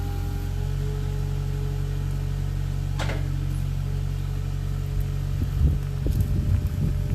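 Skid steer engine running steadily, with a short swish about three seconds in and irregular knocking and rattling from about five seconds in.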